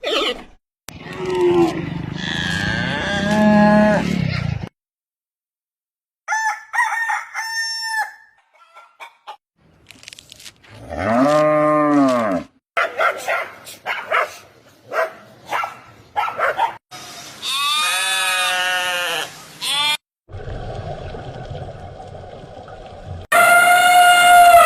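Several different animal calls, one after another, each lasting a few seconds, with short silent gaps between them. Farm-animal cries of the chicken-and-livestock kind are among them.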